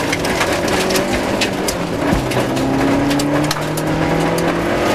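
Rover 214 rally car's engine heard from inside the cabin, pulling steadily at speed on gravel, its pitch shifting about two seconds in, with many sharp ticks of gravel and stones striking the underside.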